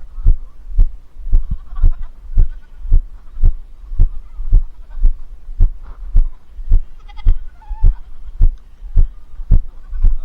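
Heavy footsteps thumping on the camera microphone at a steady walking pace, about two a second. A farm animal bleats faintly a couple of times, about seven seconds in and near the end.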